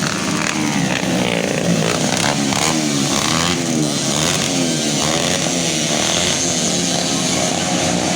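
Several motocross bikes racing, their engines revving up and down over and over, the rising and falling pitches overlapping.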